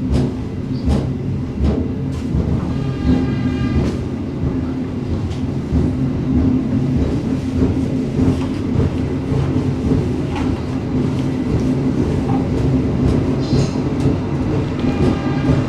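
Passenger train running along the track: a steady low rumble with irregular clacks of the wheels over rail joints, and a brief high-pitched ringing tone about three seconds in and again near the end.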